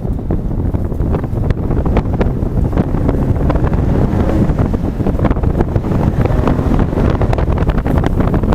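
Ford Ranger Raptor's 3.0 L twin-turbo V6 running while the truck drives, heavily masked by wind buffeting on the microphone: a steady, dense low rumble with crackling gusts throughout.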